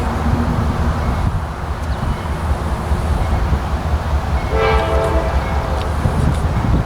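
A diesel train running with a heavy, steady rumble. About four and a half seconds in there is one short blast on the locomotive's air horn, several notes sounding together.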